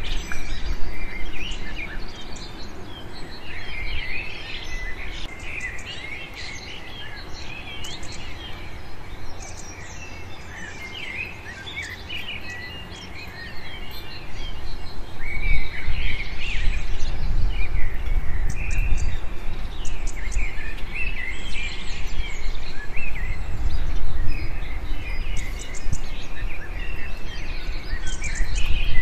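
Small birds chirping and calling in the background, over a low rumbling noise that gets louder about halfway through.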